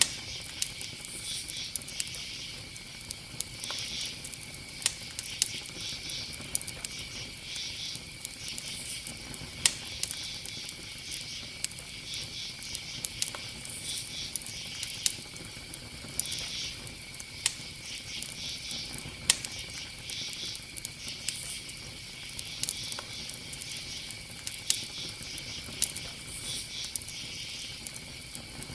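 Night insects such as crickets chirping in pulsing bursts over a steady high-pitched drone, with irregular sharp crackles and pops scattered throughout.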